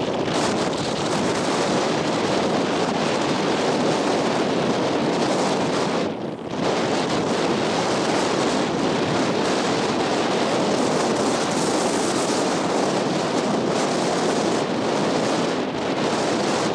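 Loud, strong wind buffeting the microphone in a dense, steady rush, with ocean surf on the beach mixed in. It drops off briefly about six seconds in.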